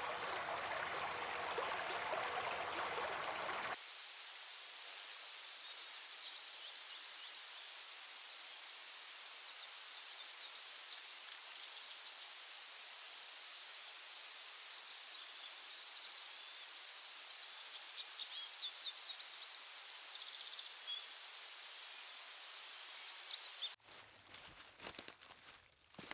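Outdoor forest ambience pieced together from separate recordings. Running stream water for a few seconds, then an abrupt change to a steady hiss with a continuous high-pitched insect drone and faint short chirps. Near the end it cuts to a quieter patch with scattered soft crackles.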